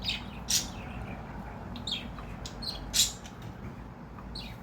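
Cockatiel giving about six short, harsh squawks in quick succession, the loudest about three seconds in: an irritated bird reacting to being scratched, which the owner puts down to sore new pin feathers from molting.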